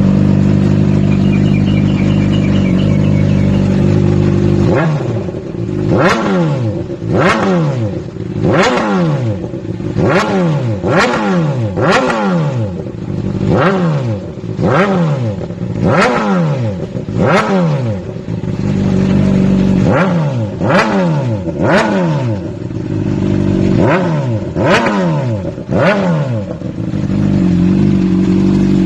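Motorcycle engine through an aftermarket racing exhaust: idling, then blipped hard and repeatedly, each rev rising sharply and falling back, about one every second and a half, before settling back to idle near the end.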